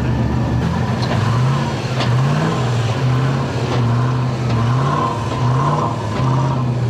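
Off-road 4x4 trial car's engine running at low speed, its revs rising and falling several times as the throttle is worked.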